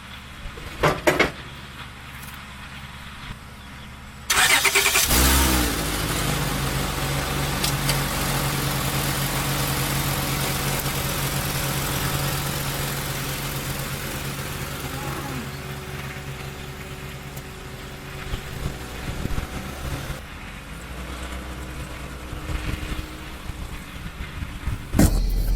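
A car engine cranks and starts about four seconds in, then runs steadily at idle, gradually quieter toward the end. A couple of short clicks come before it starts.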